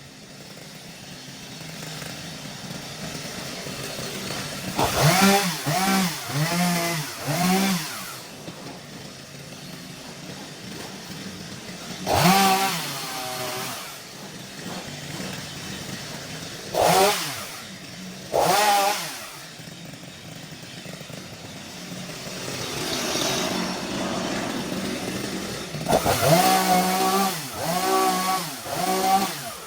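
Chainsaw engine idling and revved in short bursts: a quick run of several revs about five seconds in, single revs a few times through the middle, and another quick run of revs near the end.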